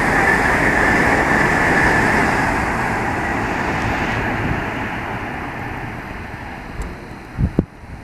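A train passing through the station, its rolling noise and a steady high ring gradually dying away as it leaves. Two brief thumps come near the end.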